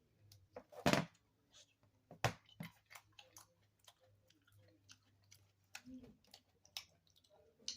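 Irregular small clicks and taps of plastic and metal parts being handled while working on an opened iPhone, with one sharp click about a second in and another about two seconds later.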